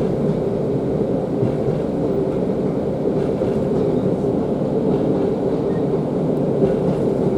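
Class 150 Sprinter diesel multiple unit under way, heard from inside the carriage: a steady drone of its underfloor Cummins diesel engine mixed with wheel and rail noise.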